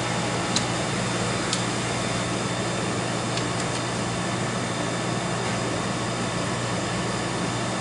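Steady fan-like hum from a powered-up slot machine cabinet, with a few light clicks in the first few seconds.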